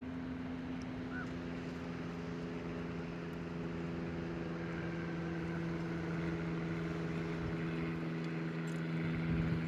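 Steady hum of a moving vehicle with road noise, unchanging in pitch.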